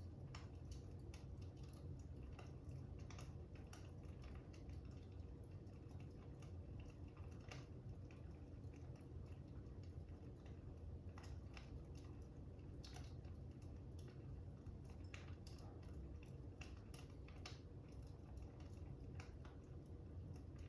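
Faint fire crackling: irregular sharp pops and crackles, several a second, over a low steady rumble.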